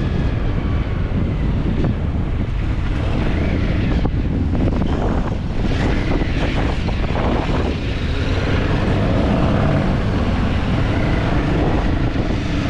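Heavy wind rumbling on the microphone, steady and unbroken, mixed with the running of a vehicle.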